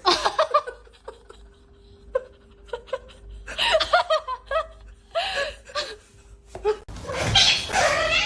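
A person laughing in short bursts. About seven seconds in it cuts abruptly to a louder, noisier stretch.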